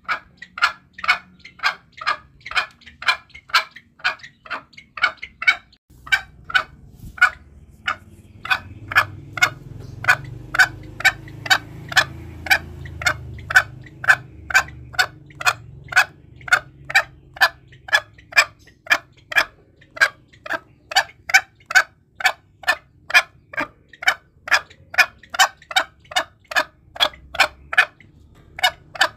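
Green junglefowl giving a long run of short, evenly spaced clucking calls, about two to three a second, as used to lure and provoke wild junglefowl. A low rumble runs underneath from about six seconds in.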